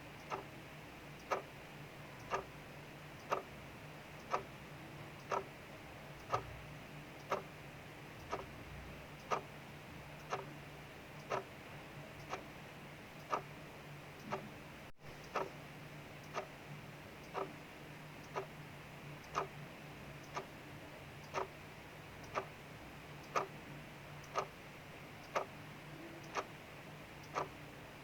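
Mechanical clock ticking steadily, one sharp tick about every second, over a faint steady hiss of rain.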